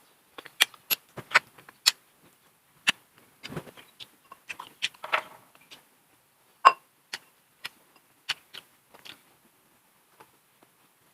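Close-up eating sounds: a run of sharp, irregular crunches and cracks as crunchy food is bitten and chewed, with a few noisier chewing smears in between.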